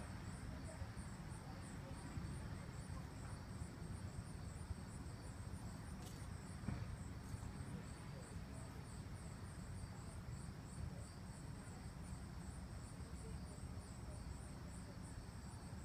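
A cricket chirping steadily, a high pulsed trill repeating about three times a second, over a steady low rumble.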